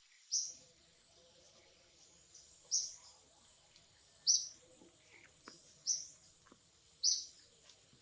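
A bird calling, five short high chirps spaced about one to two seconds apart over faint outdoor background noise.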